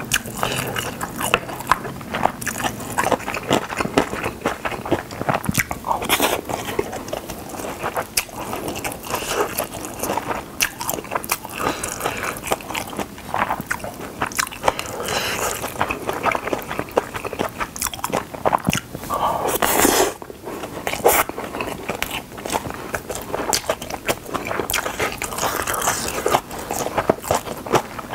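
Close-miked chewing of Spam kimchi fried rice: a continuous, irregular stream of wet mouth clicks and smacks as mouthfuls are bitten and chewed.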